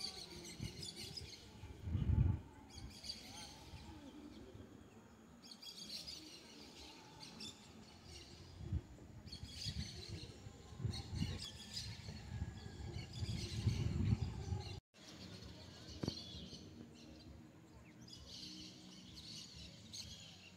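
Birds chirping and singing in repeated bursts, high-pitched and faint, with low rumbling thumps on the microphone a few times.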